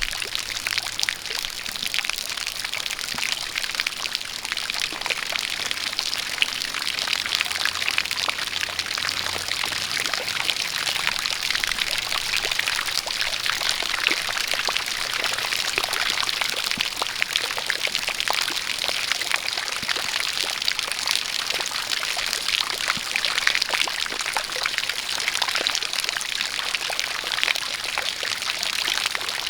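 Steady, dense rush of rain and a spout of running water, with many fine crackling drips.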